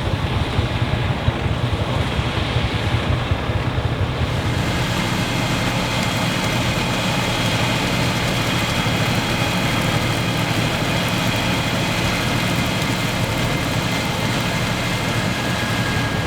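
Vintage air-cooled Deutz diesel tractor engine and pull-type combine threshing machinery running steadily. About four seconds in, a steady high whine from the machinery joins.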